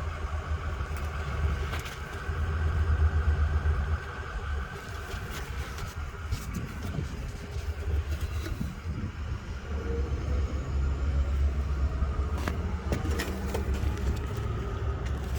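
Wind buffeting the microphone: a low rumble that swells and fades, with a few faint clicks from hand tools.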